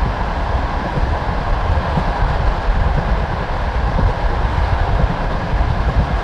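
Passenger train carriage running along the track: a steady rumble and rush of wheels on rails, with scattered light knocks.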